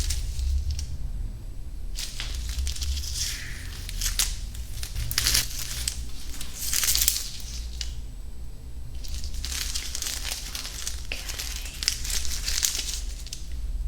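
Close-miked ASMR trigger sounds: crackly, crinkly noises in about six bursts of half a second to two seconds each, with short quieter gaps between.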